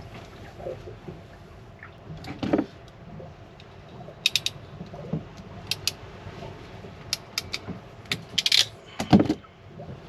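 Scattered metallic clicks and clatter of hand tools and small parts being handled, with heavier knocks about two and a half and nine seconds in, while a failed transformer in a marine air conditioner is swapped for a new one.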